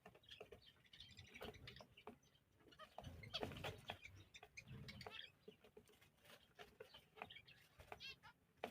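Faint, irregular animal calls: many short chirps and cries with scattered clicks, a little louder about three to four seconds in.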